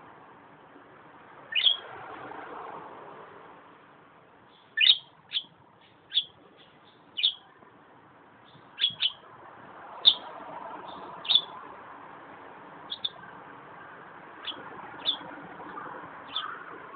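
Budgerigar chirping contentedly: about a dozen short, sharp calls that drop quickly in pitch, scattered unevenly and some in quick pairs.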